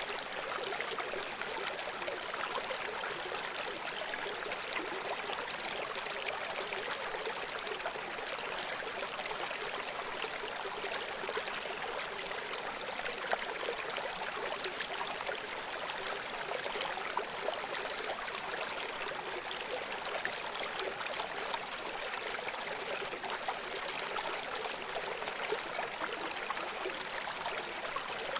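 Running stream: water flowing and trickling over rocks, a steady rushing with small splashes and gurgles.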